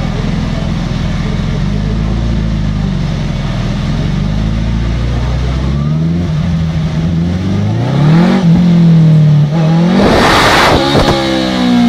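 Motorcycle engine running on a dynamometer: it runs steadily, then revs up, climbing in pitch twice with a short drop between. A loud rush of noise comes near the end.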